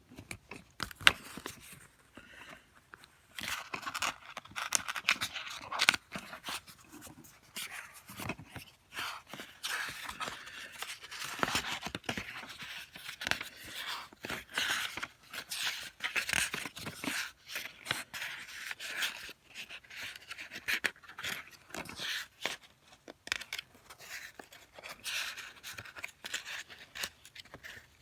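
Close handling noise of plastic DVD cases: a steady stream of irregular clicks, scrapes and rubbing.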